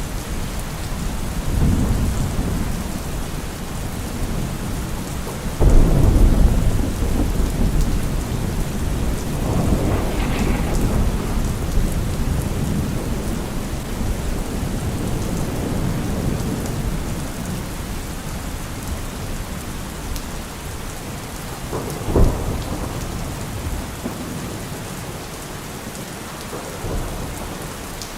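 Heavy rain falling steadily on a car roof through a thunderstorm. A loud roll of thunder breaks in suddenly about six seconds in and rumbles away over several seconds, and a sharper clap of thunder comes about three-quarters of the way through, with fainter rumbles around it.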